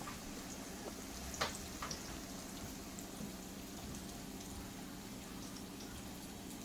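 Food deep-frying in hot oil: a steady sizzle with scattered sharp pops and crackles, one louder pop about a second and a half in.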